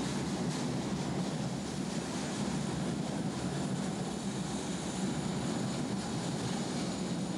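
Passenger train of red-and-white coaches rolling past the platform at low speed: a steady, even rumble of wheels and running gear on the rails.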